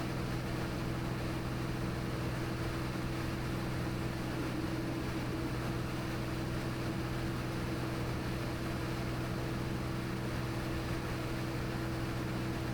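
Cirrus SR22T's turbocharged six-cylinder engine and propeller droning steadily in the cabin during a descent, with a constant low hum and hiss.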